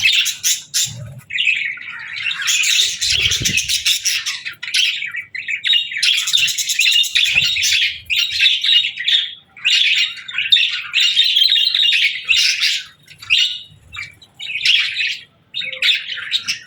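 Budgerigars chirping and chattering without pause, a flock's busy warbling with short gaps near the end.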